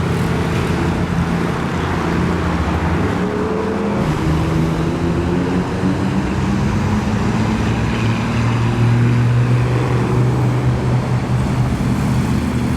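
Car engines running with their pitch rising and falling, strongest about two-thirds of the way in, over steady road noise.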